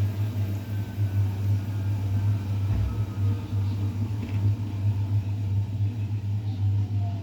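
Bosch WGA 2520TR front-loading washing machine running: a steady low hum with faint gliding motor whines above it, one falling in pitch near the end.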